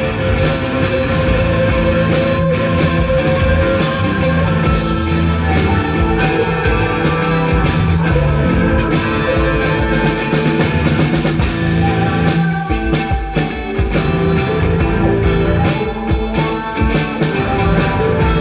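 Live rock band playing an instrumental passage between sung lines, with a drum kit keeping a steady beat under guitar and bass.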